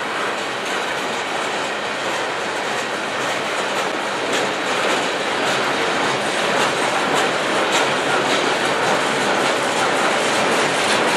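Freight train cars rolling past: a steady rumble of steel wheels on rail, with the clickety-clack of wheels passing over rail joints. It grows a little louder about a third of the way in.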